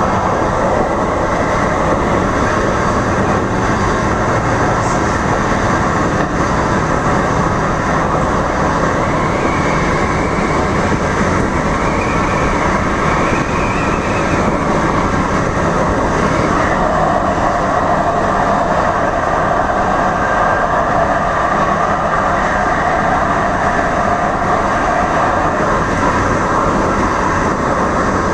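DART light rail train running at speed, heard from inside the car: a steady, loud rumble of wheels on rail and running gear, with a faint wavering whine in the middle.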